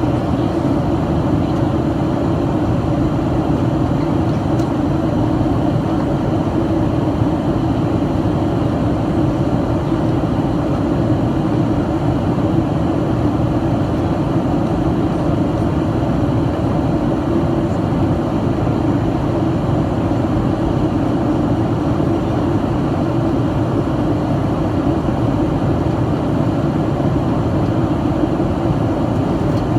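Steady cabin noise inside a Boeing 737-800 in flight: the even roar of its CFM56 engines and the airflow over the fuselage, deep and unchanging.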